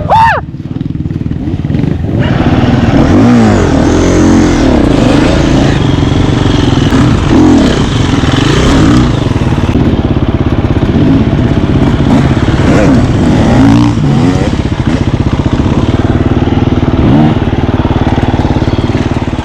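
Enduro dirt bike engine being ridden, revving up and down repeatedly as the throttle is opened and closed. A sharp rev right at the start drops away briefly before the engine pulls hard again.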